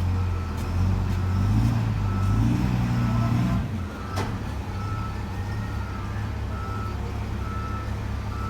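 A motor grader's diesel engine working under load while reversing, its engine note easing off a little past halfway. Its reverse alarm beeps steadily throughout, about one and a half beeps a second, with a single sharp click about four seconds in.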